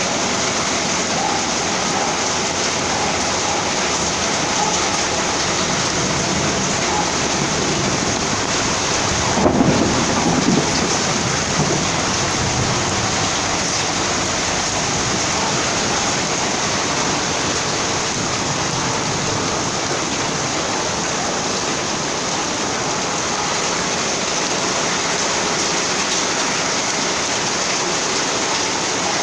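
Heavy rain pouring steadily in a thunderstorm, with one sharp thunderclap about nine and a half seconds in that rumbles for a couple of seconds.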